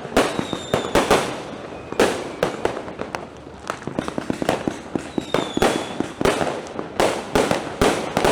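Fireworks and firecrackers going off in a continuous irregular barrage of bangs, with louder reports about once a second. A couple of short falling whistles from the fireworks cut through.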